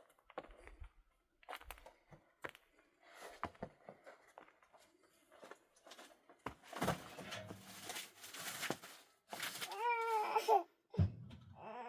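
Scattered light knocks and rustling handling noises, then a small child's high, wavering, whimpering voice about ten seconds in that starts again at the very end.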